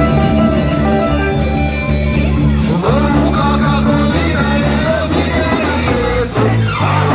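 Upbeat band music with a steady, pulsing bass line and instruments playing over it.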